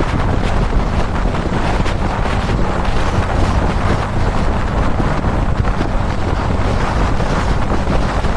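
Wind rushing over the microphone of a riding motorcycle, over the steady low drone of a Kawasaki Dominar 400's single-cylinder engine.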